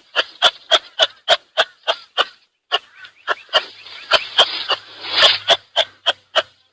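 An animal calling in a rapid, regular series of short sharp pulses, about four a second, with a brief pause partway through.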